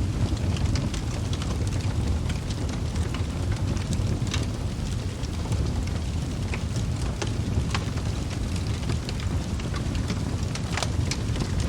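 Wood fire burning in a fireplace: a steady low rumble of flames with irregular crackles and pops from the logs, a few sharper ones standing out.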